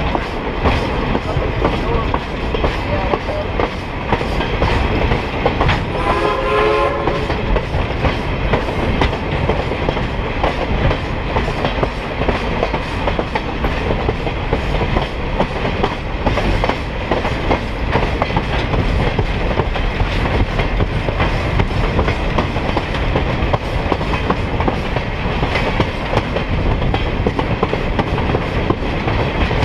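Steady running noise of a train rolling along the rails, heard from aboard a car. About six seconds in, the locomotive gives one short pitched signal blast lasting about a second.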